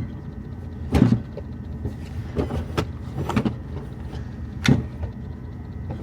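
Knocks and scrapes of an item being pushed and wedged into place on a refrigerator shelf, with a louder thump about a second in, a few lighter clunks in the middle, and another thump nearly five seconds in.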